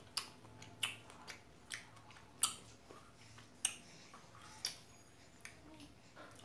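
Close-up chewing of fresh strawberries: a string of sharp, wet mouth smacks and clicks, about eight of them at an uneven pace, loudest around the middle.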